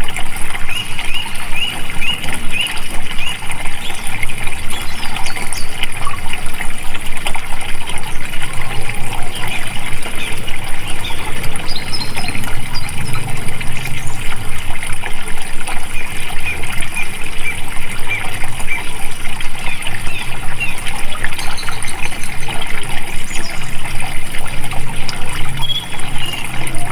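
Stream water running and babbling steadily, with faint short bird chirps scattered through it.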